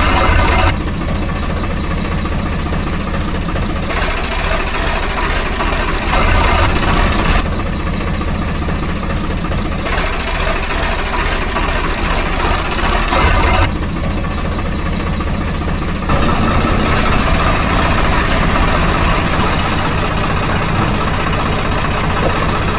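Engine idling with a steady low rumble, the sound changing abruptly in level and tone every few seconds.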